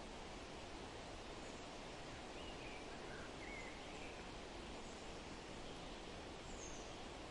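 Steady outdoor background hiss with a few faint, short bird chirps in the middle and one higher chirp near the end.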